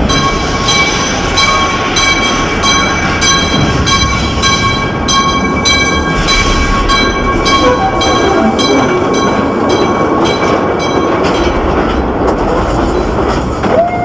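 Mine-ride train rolling along its track, with a regular clack, over a steady ringing tone that stops near the end.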